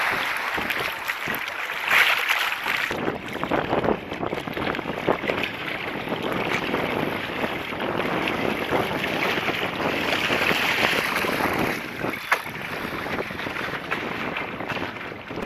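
Wind buffeting the microphone over water rushing and splashing around a sailing boat under way, with a sharp knock about twelve seconds in.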